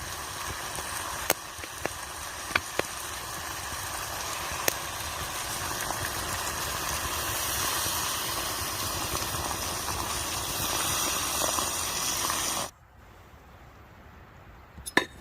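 Steady hissing noise with a few scattered sharp clicks, cutting off suddenly near the end and leaving a much quieter background with a couple more clicks.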